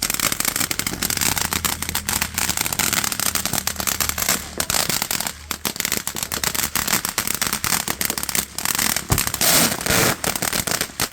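Consumer ground firework going off as a dense, rapid crackle of sharp pops that keeps up without a break, then stops suddenly near the end.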